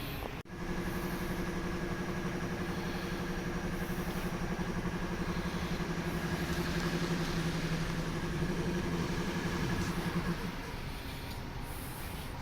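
Honda Jazz running at idle with a steady whine, the abnormal noise the owner traces to the transmission. The whine stops about ten seconds in, leaving a steady low hum.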